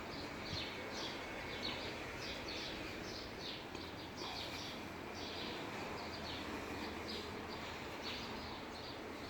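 Small birds chirping over and over, short high chirps that drop in pitch, about two or three a second, over a steady hiss of background noise.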